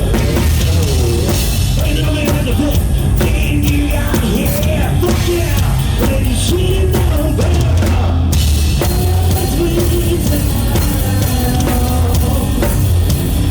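Live rock band playing loud: full drum kit, distorted electric guitars and bass, with a singer's voice over the top. The high cymbal wash drops out briefly a little after the middle.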